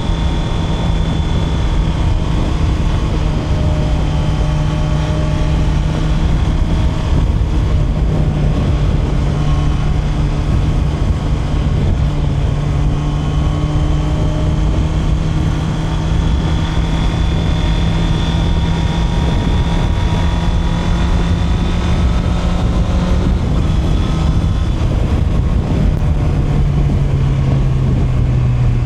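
Honda CB650R's inline-four engine running at a steady cruise, the note rising a little midway and then dropping as the revs come down near the end, over a constant low rush of noise.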